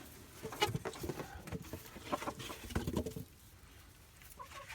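A flurry of light taps and rustles from cardboard egg crates being shaken and knocked to dump feeder crickets for the chickens, tailing off after about three seconds, with a brief soft hen cluck near the end.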